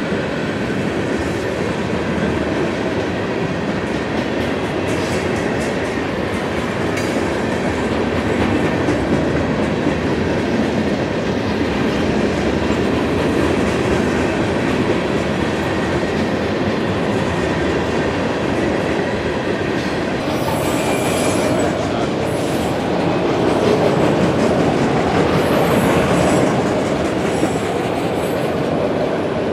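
Freight cars of a long manifest train rolling past steadily, wheels clicking over the rail joints, with brief high wheel squeals about two-thirds of the way through and again near the end.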